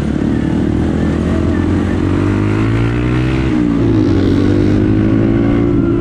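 Motorcycle engine accelerating. Its pitch climbs, drops suddenly about three and a half seconds in as a gear is changed, then rises again.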